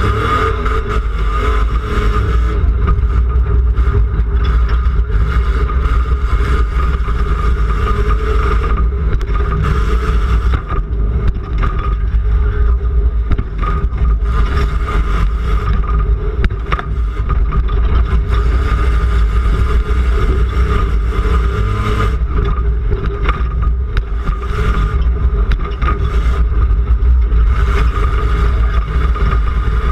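Rough-course race truck's engine running hard and loud, heard from inside the cab, with steady rattling and repeated knocks and clatter from the truck over the bumps.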